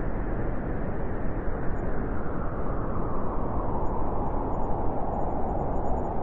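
Blizzard wind blowing through a forest: a steady, dense rush with no breaks or separate sounds.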